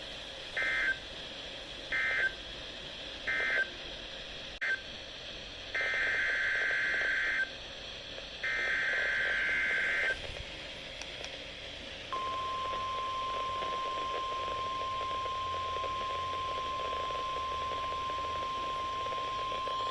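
Emergency Alert System SAME data bursts on NOAA Weather Radio: three short raspy end-of-message bursts, then two longer header bursts for the next warning. About two seconds later the steady 1050 Hz weather radio warning alarm tone starts and holds.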